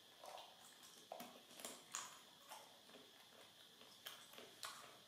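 Faint, irregular crunches and clicks of a baby macaque chewing crisp dried banana chips, about two a second.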